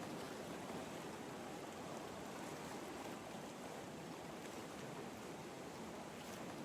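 Ocean waves washing ashore in a soft, continuous rush with no distinct breaks between waves.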